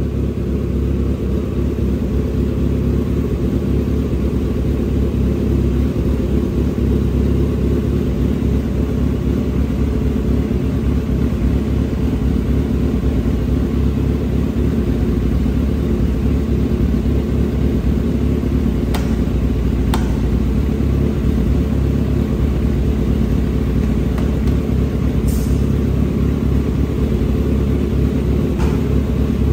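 Motorcycle engine running steadily at constant revs, a loud low rumble. Two short clicks come about two-thirds of the way in.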